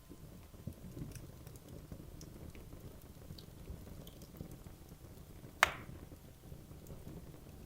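Wood logs burning in a fireplace: a low steady rumble of flames with scattered small crackles, and one sharp loud pop about two-thirds of the way through.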